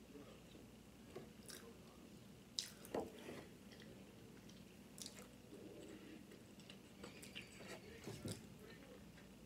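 Faint mouth sounds of chewing and lip smacking, with a few short, soft, wet clicks, the loudest about three seconds in.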